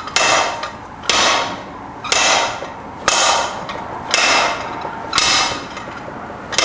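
Steady hammer blows on steel, about one a second, seven strikes, each ringing briefly. A broken chisel tip jammed in a hardened steel part of a Subaru six-speed transmission is being driven, and it is not budging.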